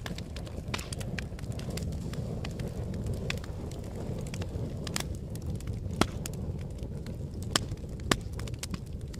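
Fire crackling: a steady low rumble of flames with frequent small pops, and three sharper, louder pops in the later part.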